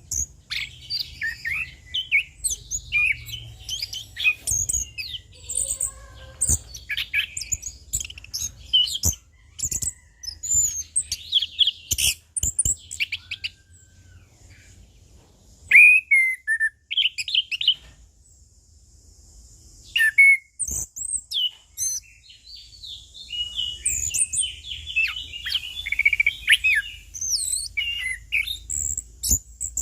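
Orange-headed thrush singing a long, varied song of quick chirps, trills and whistled phrases, with a couple of short pauses midway.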